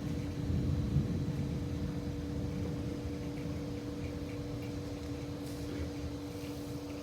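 Low rumble of thunder dying away, under a steady two-tone hum.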